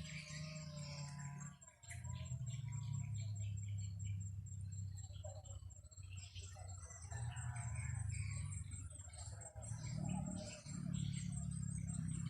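Wild birds chirping and calling, over a fast, even high-pitched insect trill. A low rumble of wind on the microphone swells and drops away in stretches of a few seconds.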